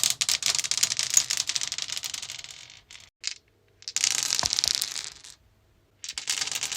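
Dice rolling and clattering across a stone surface, in three rattling rolls of rapid clicks with short silent gaps between them.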